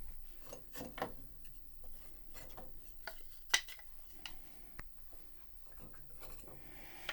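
Spinet piano parts being handled during disassembly: scattered light clicks, knocks and rubbing of small hard parts, with one sharp click about three and a half seconds in.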